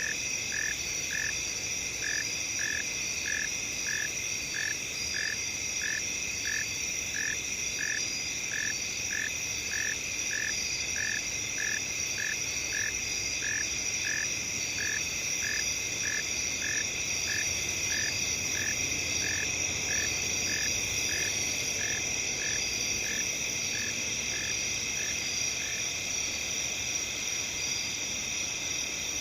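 Night chorus of crickets, a steady layered high trill. Over it a single animal call repeats in short even notes, about two a second, and stops shortly before the end.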